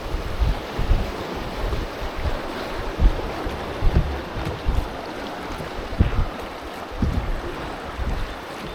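Rushing river water with wind buffeting the microphone in low, irregular thumps.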